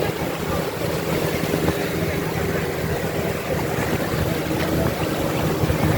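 Motorboat engine running steadily at an even pitch, with a rushing noise of wind and water over it.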